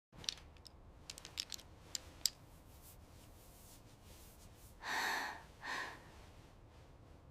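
A few faint clicks, then two short breathy gasps, the first about five seconds in and the second just under a second later.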